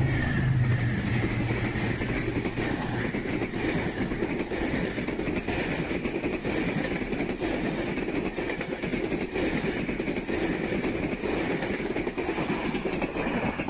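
Diesel-hauled passenger train passing close by. The locomotive's engine drone is heard during the first couple of seconds. Then the coaches roll past with a steady rumble of wheels on rail and repeated clicking over the rail joints.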